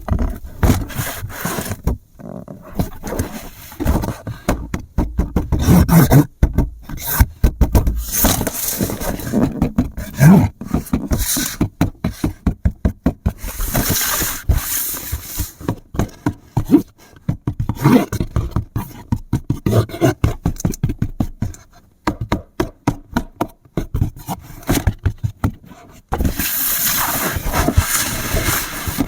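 Irregular clatter of many sharp clicks and knocks, with scraping between them; near the end it turns abruptly into a steadier scraping hiss.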